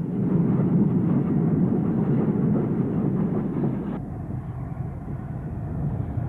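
Steam train running, a steady dense mechanical noise that changes abruptly about four seconds in.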